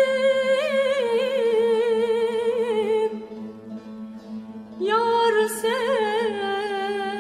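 A woman singing a slow Turkish zeybek folk song, drawing out long ornamented notes that waver in pitch. She breaks off about three seconds in and comes back with another held phrase about a second and a half later, over a steady low drone.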